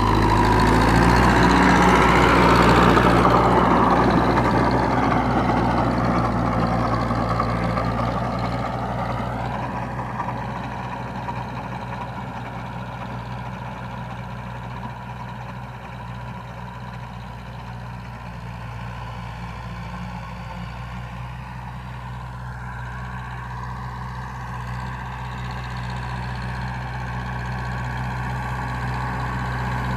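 Tractor engine running steadily under work, loudest about two seconds in, fading through the middle and growing louder again near the end as the tractor moves away and comes back.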